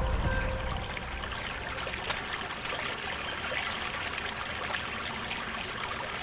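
Steady rushing water noise, an even hiss with a few faint ticks in it.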